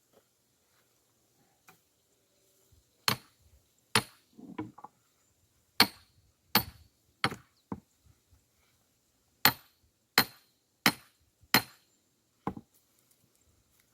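Axe chopping firewood: about ten sharp, loud strikes in two quick runs, roughly one every 0.7 seconds, starting about three seconds in, with a brief crackle of wood giving way after the second strike.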